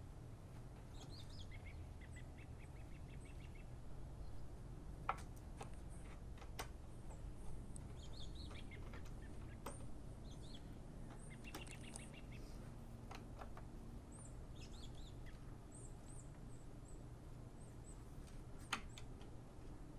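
Faint birds chirping in short repeated calls over a low steady hum, with a few sharp clicks, the loudest about five seconds in and near the end.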